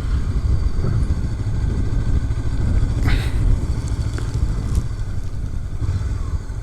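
Honda CB500X parallel-twin motorcycle running on the road, heard under heavy, gusting wind rumble on the rider's microphone.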